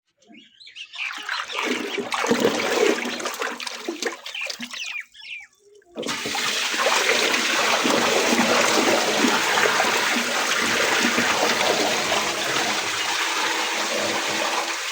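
Water swirling and draining in a whirlpool vortex: irregular gurgling and splashing at first, then about six seconds in an abrupt change to a steady rushing of water.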